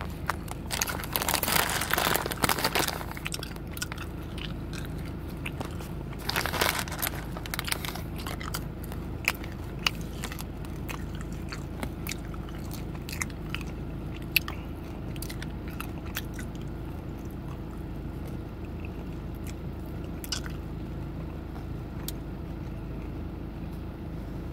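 Close-up crunching and chewing of Big Chewy Nerds candy. There is a dense burst of crunching in the first three seconds and another around six seconds, then scattered small clicks, over a steady low hum.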